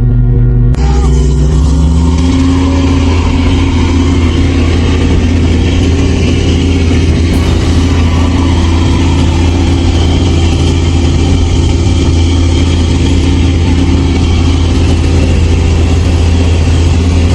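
A fishing boat's engine running steadily under a constant hiss, cutting in suddenly under a second in where music had been playing.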